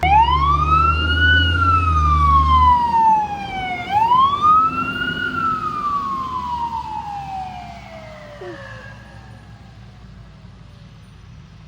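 Emergency vehicle siren wailing in two slow cycles. It starts suddenly, climbs, slides down slowly, climbs again and falls away, fading. A low rumble runs under the first few seconds.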